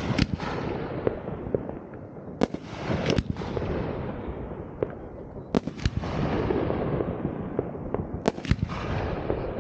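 Fireworks going off: sharp bangs, mostly in quick pairs, every two to three seconds, each followed by a fading crackle, over a steady rumble of more fireworks.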